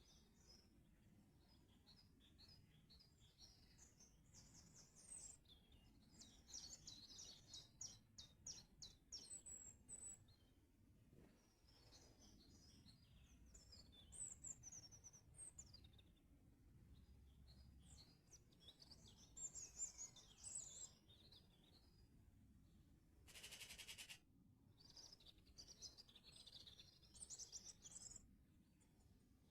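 Faint songbirds singing: overlapping chirps and short phrases, including a rapid trill of evenly spaced notes about a quarter of the way in. About three-quarters of the way through, a brief burst of hiss.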